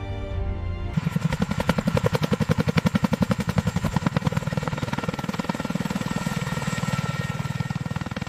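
CH-47 Chinook tandem-rotor helicopter's rotor blades chopping in a fast, even beat, starting about a second in and loudest a couple of seconds later.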